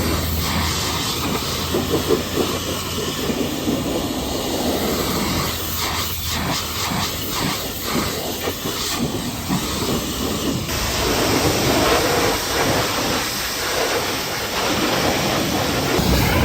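Pressure washer spraying water onto a truck, a steady hissing spray that shifts abruptly in character about ten and a half seconds in.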